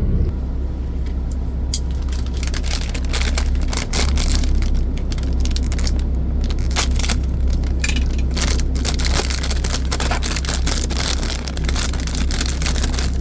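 Crisp crackling and crinkling of a roasted seaweed snack pack being handled and the thin sheets eaten: many small clicks from about two seconds in. Under it runs the steady low hum of an idling vehicle engine.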